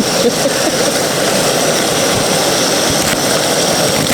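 MSR WindPro II canister stove burner running with a steady hiss, fed from an upside-down fuel canister. A faint knock comes about three seconds in.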